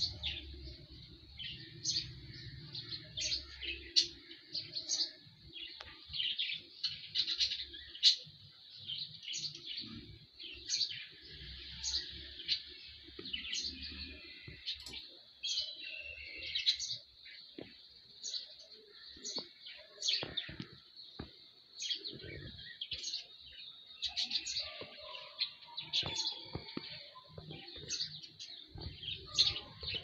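Small birds chirping: many short, high calls in quick succession, overlapping and irregular.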